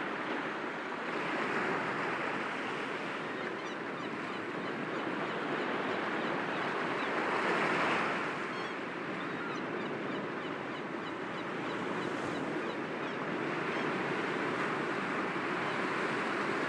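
Sea waves breaking gently against rocks, a steady washing hiss that swells and eases, with the loudest break about eight seconds in.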